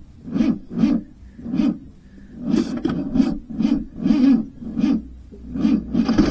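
Ford 2.9 V6 being cranked slowly by its starter, labouring through each compression stroke in uneven chugs about two a second. Not enough cranking power from a single jumper box.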